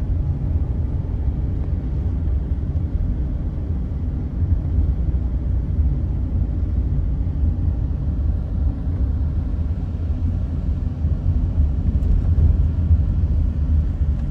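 Toyota Corolla GLi running after a tappet repair: a steady low rumble with no tapping heard.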